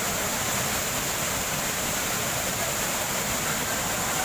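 Thirparappu waterfall's water falling, a steady, unbroken rush of noise.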